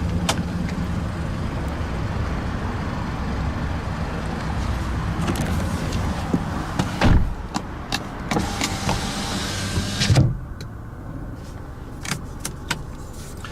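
Car door handling: a steady rumble and hiss with a thump about seven seconds in, then a door shutting with a thud about ten seconds in, after which the background noise drops sharply.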